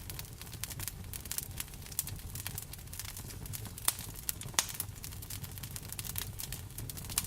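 Wood fire crackling in a fireplace: a dense, irregular run of small sharp pops, with a few louder snaps near the middle and near the end. Underneath is a steady low rumble of rain.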